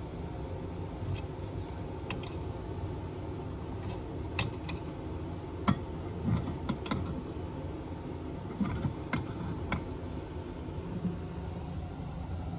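A scattered series of light clicks and clinks of small hard objects being handled, a dozen or so irregular taps, most of them between about 4 and 10 seconds in, over a steady low hum.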